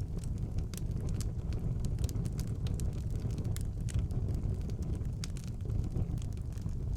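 Fire burning in a fireplace: a steady low roar from the flames with frequent, irregular sharp crackles and pops.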